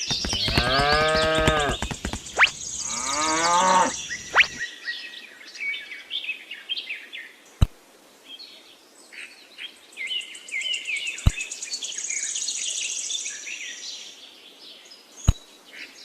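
A cow mooing twice in the first four seconds, long drawn-out calls that rise and fall in pitch. Birds then chirp steadily, with three sharp clicks spread across the rest.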